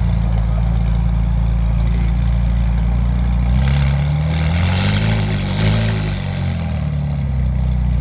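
McLaren twin-turbo V8 idling, then revved up twice between about four and six seconds in, with a hiss over the revs, before dropping back to a steady idle.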